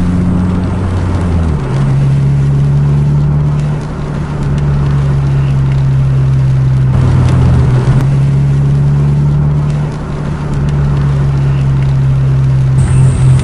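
Car engine humming steadily, heard from inside the cabin while driving on a wet road, with tyre noise beneath it. The engine note shifts to a different pitch about a second and a half in.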